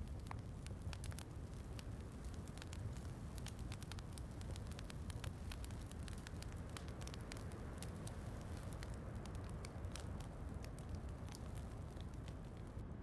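Fireplace crackling, with frequent irregular sharp pops, over a steady low rush of rain.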